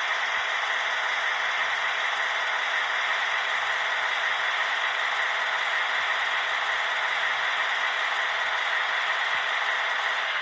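Model BR 215 diesel locomotive with ESU sound and smoke fitted, running with a steady, thin rushing noise that holds without change throughout.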